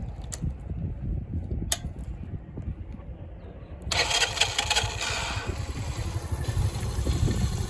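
A mini-chopper's Lifan 50cc single-cylinder engine running with a fast low putter, with a couple of sharp clicks early on. About four seconds in it revs up suddenly, then settles back.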